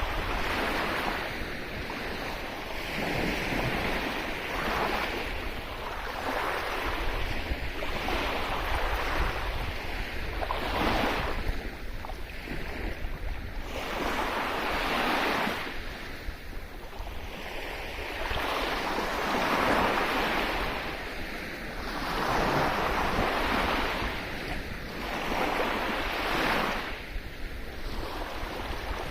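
Sea waves breaking and washing up a beach, the surf swelling and falling back every two to three seconds, with a low wind rumble on the microphone underneath.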